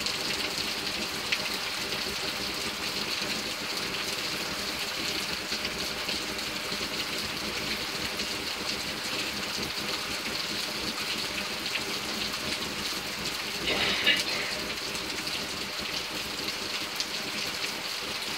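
Heavy rain falling steadily in a downpour, briefly louder about fourteen seconds in.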